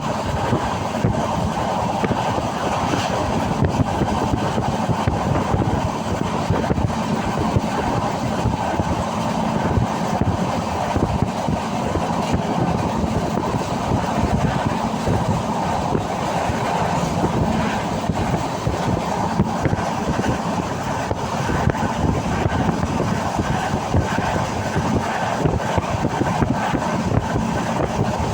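Passenger train running steadily, heard from inside the carriage: a continuous rumble of wheels on the rails with small irregular rattles.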